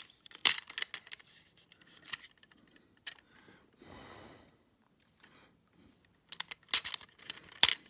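Hard plastic toy track pieces clicking and knocking as they are handled and pressed together, with sharp clicks scattered through and a brief soft rustle near the middle.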